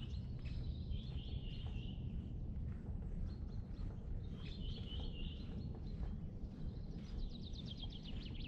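Songbirds singing short phrases over a steady low outdoor rumble, with a quick trill of falling notes near the end.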